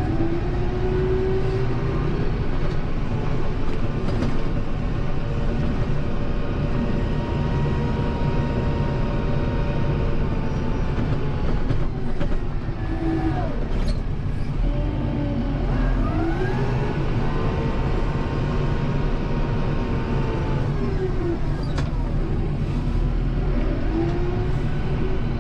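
Kubota M7060 tractor's diesel engine running steadily under load while pushing snow, with a whine that rises and falls in pitch several times as it works.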